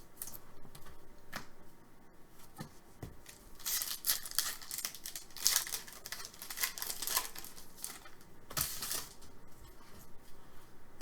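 Crinkling and tearing of 2018-19 Upper Deck SP Authentic hockey card pack wrappers as cards are handled, in several brief spells of scratchy rustling, the busiest a few seconds in.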